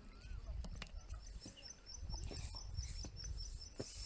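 A bird repeating a short, high chirp rapidly, about five times a second, starting about two seconds in, over a low rumble of wind on the microphone.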